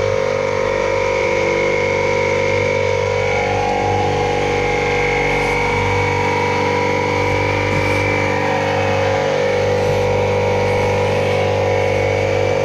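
Air compressor's motor running steadily and loudly, with a constant hum.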